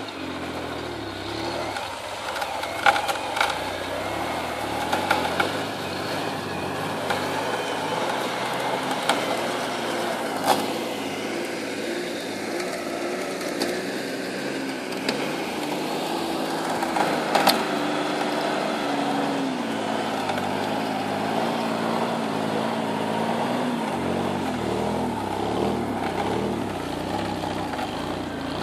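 Four-wheel-drive off-roader's engine running and revving in snow, its pitch rising and falling, with a few sharp knocks along the way; the engine note settles lower near the end.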